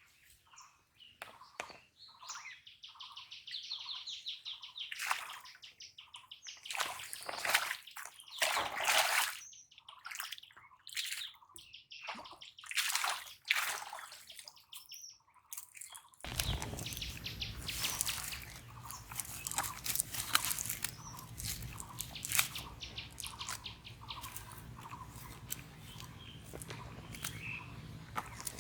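Birds chirping and trilling, broken by several loud rushing, splashy sounds. About halfway through, the sound cuts suddenly to a steady low rumble scattered with many small clicks and splashes.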